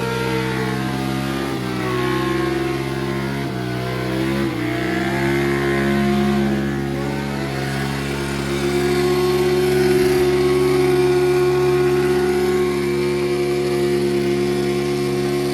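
Motorcycle engine revving hard during a burnout, held near the top of its revs. The revs dip briefly three times in the first few seconds, then stay high and steady.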